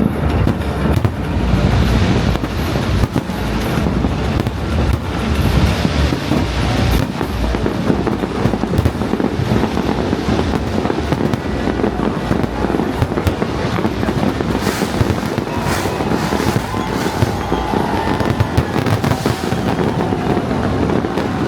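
A New Year fireworks display: dense, continuous bangs and crackles of aerial fireworks going off one after another.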